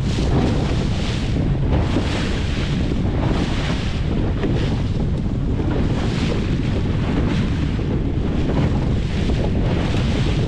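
Small boat under way on open water: a steady rumble of wind buffeting the microphone, with water rushing and swishing along the hull in swells about once a second.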